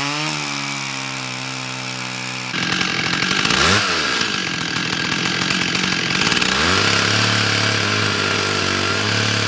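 Two-stroke chainsaw revving up at the start, then running at high speed as it cuts into a tree trunk, plausibly the notch cut. Its engine note dips briefly twice, then settles at a lower, steady pitch under the load of the cut.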